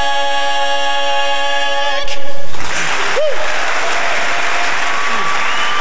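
A barbershop quartet holds its final a cappella chord, which cuts off about two seconds in, and the audience breaks into loud applause with whistles.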